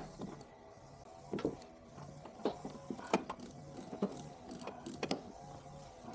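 Air-cooled flat-four engine of a 1969 Volkswagen Beetle running with a steady, slightly wavering hum and irregular sharp knocks or clicks through it. The owner puts its rough low-RPM running and poor idle down to a badly gummed-up carburettor.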